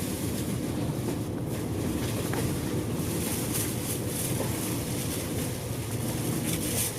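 Inside a moving bus: the engine's steady drone and road noise, with a few faint rattles.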